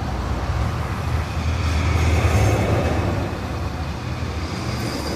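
Road traffic: a motor vehicle's low engine rumble with road noise, swelling about two seconds in and then easing off.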